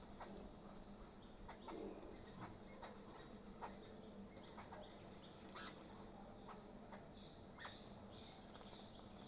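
Small birds chirping: scattered short, high chirps and clicks at an irregular pace, the loudest a little over halfway through.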